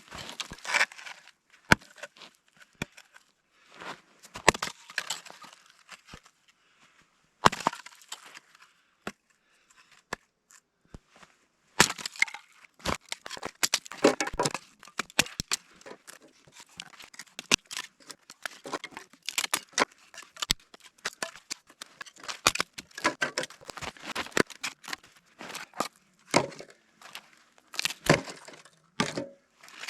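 Dry wood being snapped and broken by hand for kindling: irregular sharp cracks mixed with crunching, denser in a couple of stretches.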